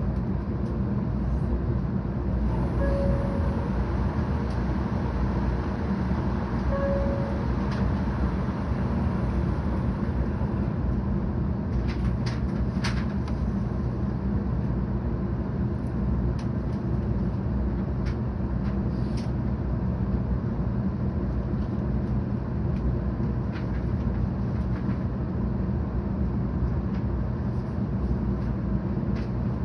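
Cabin noise inside a 700 series Shinkansen car while running: a steady low rumble of wheels on rail and running gear. A few faint short tones come about three and seven seconds in, and a few sharp clicks around twelve seconds in.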